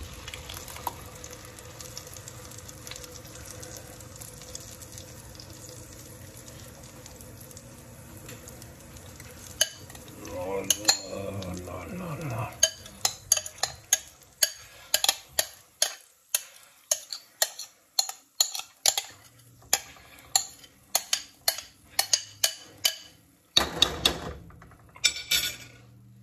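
Cashew and onion paste sizzling gently as it goes into melted butter in a saucepan. From about halfway, a spoon clinks and scrapes repeatedly against the dish, about two knocks a second, as the last of the paste is worked out of the bowl.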